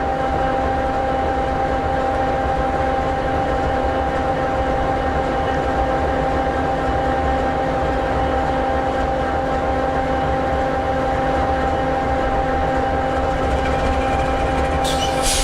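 EMD 16-710G3B two-stroke V16 diesel of an SD60E locomotive idling steadily, with a low rumble and a steady hum. A hiss of air starts near the end.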